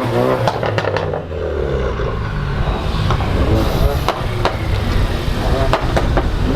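A car engine running steadily with a low, even sound, over background chatter from people nearby.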